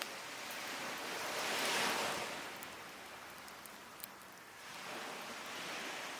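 Sea waves breaking and washing up a beach, one surge peaking about two seconds in and another building near the end, with a few sharp pops from a burning wood fire.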